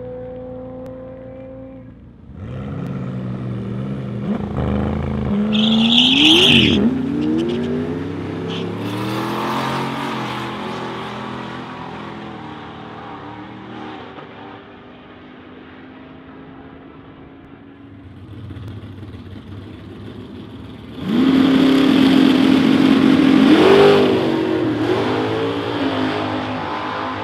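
High-performance car engines at a drag strip: revving, then accelerating hard with a sharp rise in pitch about five to six seconds in before fading. About 21 seconds in, a much louder engine comes in suddenly at steady high revs and climbs again near 24 seconds.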